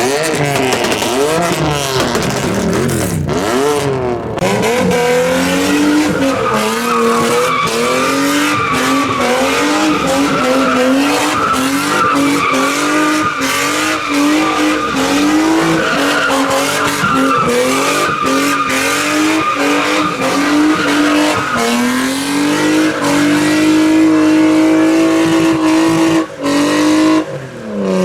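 A car engine revving hard in quick blips, then held at high revs with its pitch wavering up and down over squealing, skidding tyres, as when a car does donuts or a burnout. Near the end the revs drop sharply, then climb again.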